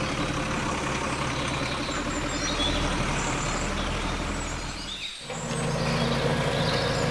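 Mini tractor engine running steadily. About five seconds in it briefly drops away and comes back as a steadier, deeper engine note. Birds chirp faintly.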